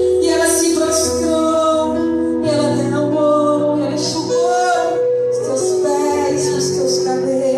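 Live worship song: a woman singing held notes, with other voices and instrumental accompaniment.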